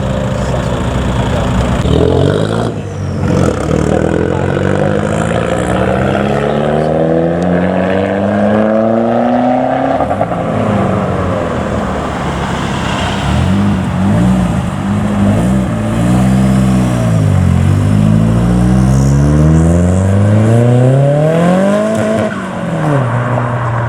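Modified Japanese car engine revving hard while pulling away. The pitch climbs steadily through the revs and drops at each lift-off or gear change. In the middle there are several quick rev-up-and-down blips, and a final long climb near the end.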